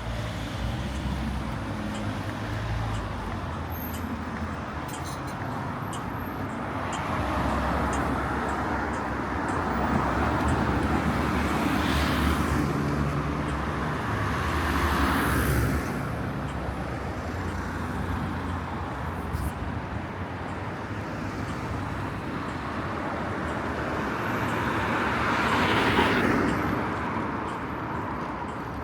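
Street traffic: cars passing on a road, their tyre and engine noise swelling and fading as each goes by, loudest about halfway through and again near the end.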